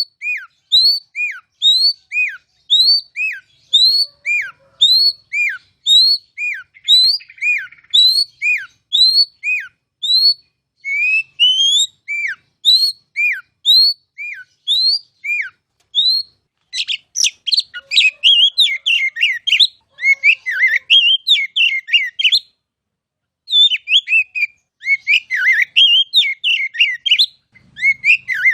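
Oriental magpie-robin (kacer) singing. It opens with a run of sharp whistled notes repeated about twice a second, then gives slurred rising whistles, and from about two-thirds of the way in breaks into fast, jumbled chattering song with one short pause.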